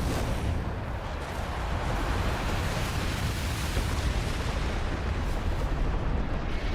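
A sustained, dense rumbling roar of an explosion-like sound effect, with a heavy low rumble and hiss on top, at a steady level.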